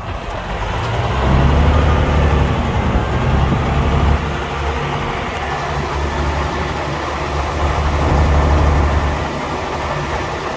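Heavy construction machine's diesel engine working under load with a low, steady engine note. It grows louder about a second in and swells again later on.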